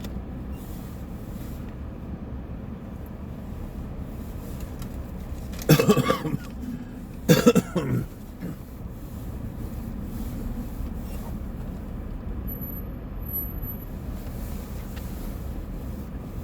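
A man coughing twice, about six and seven-and-a-half seconds in, over the steady low rumble of an idling Chevrolet Suburban heard from inside the cabin. A faint, brief high electronic beep sounds near the end.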